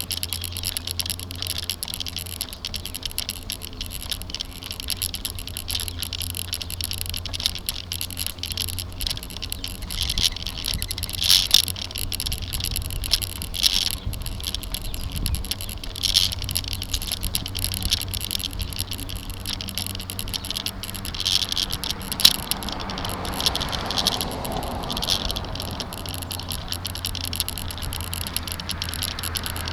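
Rattling and clicking from a bicycle-mounted camera shaken by the bike's vibration on the road, over a steady low rumble of riding. A broader rushing sound swells and fades about two-thirds of the way through.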